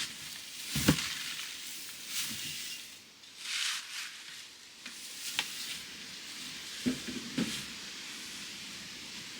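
Muscovy duck hissing softly, a breathy hiss about three and a half seconds in, amid light rustling, with a sharp knock about a second in and a few soft thuds later.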